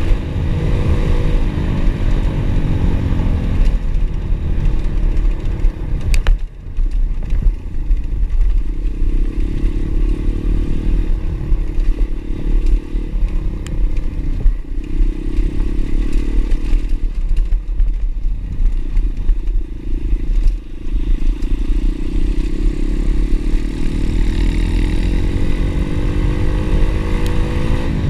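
Pit bike's single-cylinder engine running under way, its pitch falling and rising with the throttle, climbing toward the end. A heavy low rumble lies under it throughout.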